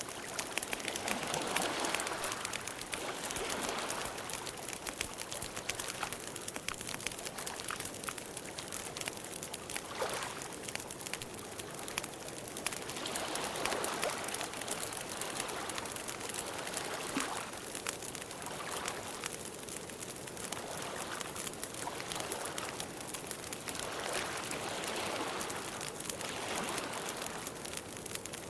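Campfire crackling steadily, with dense small pops over a soft rushing hiss that swells and fades every few seconds.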